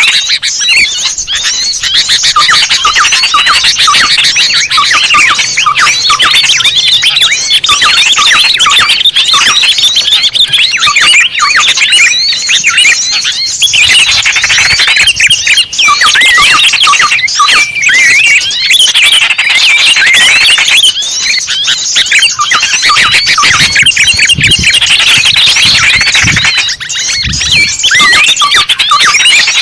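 Loud, continuous chorus of many small songbirds chirping and twittering at once, their rapid high calls overlapping. It is a bird-lure recording (suara pikat) meant to draw small birds in.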